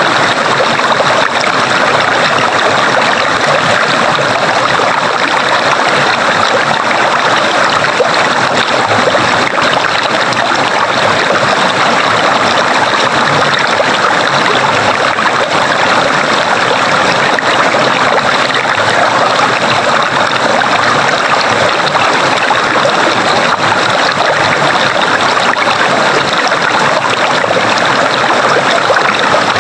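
Steady, unbroken sound of a stream of water rushing and trickling over rocks.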